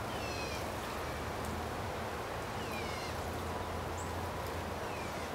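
A bird calling in the background: three short downward-sliding whistled notes, about two and a half seconds apart, over a steady low hum of outdoor background noise.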